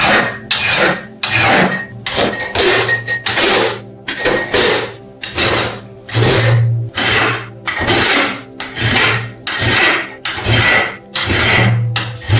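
Hand filing on metal: steady back-and-forth rasping strokes, about one and a half to two a second, working the corroded surface of an antique brass oil lamp.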